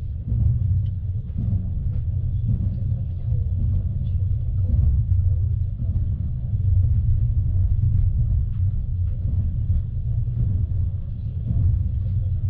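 Steady low rumble of a moving passenger train heard from on board, with faint scattered clicks and rattles.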